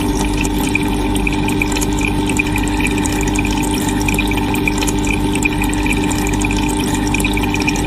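Steady rushing water with a constant machine hum under it, ending abruptly.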